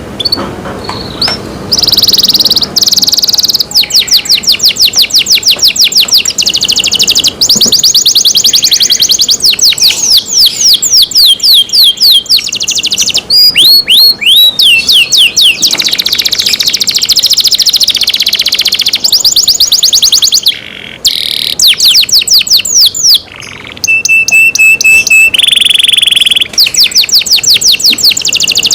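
Domestic canary singing loudly: a long song of fast trills of repeated sweeping notes, starting about two seconds in, with a held steady whistle and a buzzy roll near the end.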